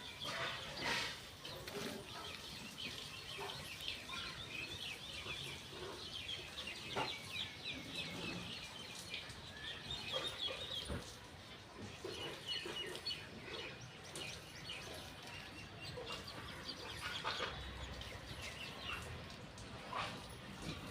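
Birds chirping: a dense, rapid chatter of short, high calls, with a few soft knocks.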